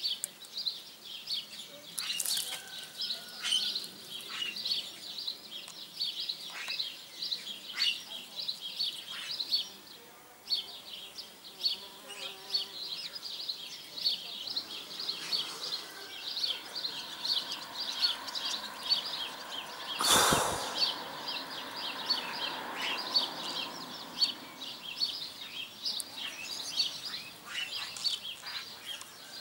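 Small birds chirping continuously in a dense, irregular chatter of short high notes, with a single sharp knock about two-thirds of the way through.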